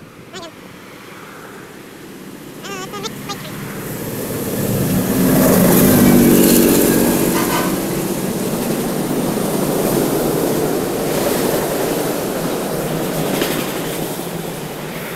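BNSF freight train's diesel locomotives passing below, growing louder as they come closer and peaking with a strong engine note about five to seven seconds in, followed by the steady noise of freight cars rolling by.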